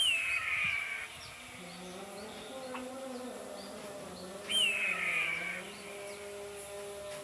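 Eagle calling twice, about four and a half seconds apart: each call is a harsh scream that jumps up sharply and then falls away over about a second.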